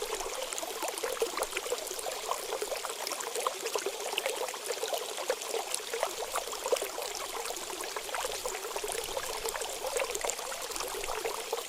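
Running water trickling and babbling steadily, full of small splashing clicks, with no low rumble.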